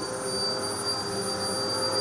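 Vacuum cleaner running steadily, a constant high whine over a rushing noise.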